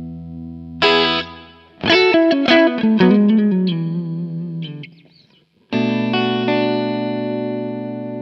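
Soloking MS-1 Custom electric guitar played through distortion: a chord struck and quickly muted about a second in, then a fast run of single notes. After a short pause a full chord is struck and left ringing.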